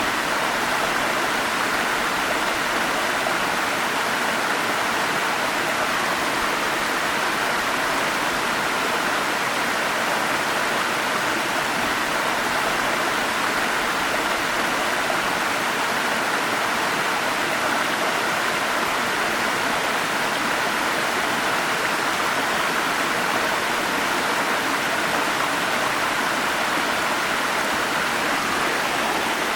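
Forest stream running steadily: an even, unbroken rush of water with no other sounds standing out.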